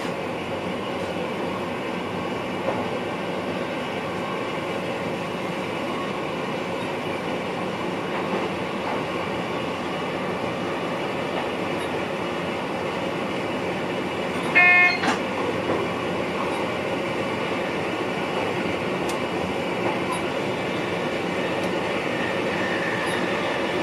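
Steady running noise of an NS VIRM double-deck electric train heard in its driving cab, with several steady hums. About two thirds of the way through, a short, loud pitched tone sounds for about half a second.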